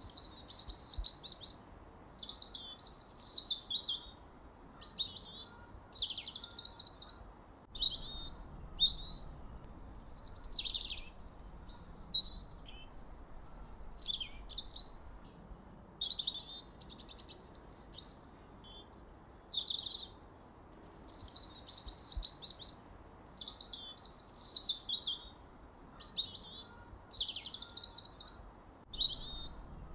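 Songbirds chirping and singing in a continuous run of short, high phrases, many sliding downward in pitch, about one to two a second.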